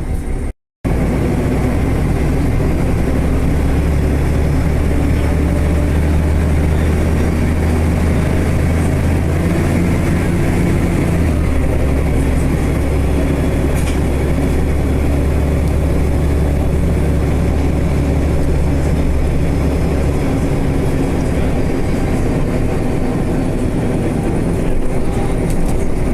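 A large vehicle running with a steady low drone and a faint high whine above it; the drone drops about eleven seconds in and eases again about twenty seconds in.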